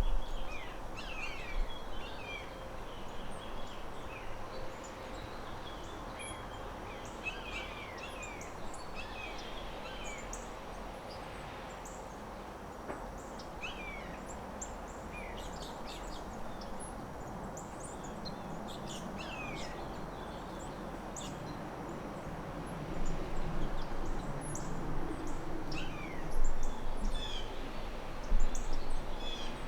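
Several birds chirping: many short, quick down-slurred calls scattered throughout over a steady background hiss. A low rumble swells louder in the last several seconds.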